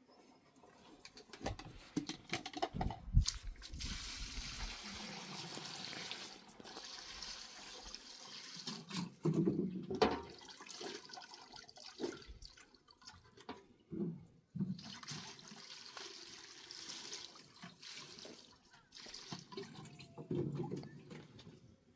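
Liquid being poured and sloshed, in stretches of hissing wash, with scattered knocks and thuds of containers being handled.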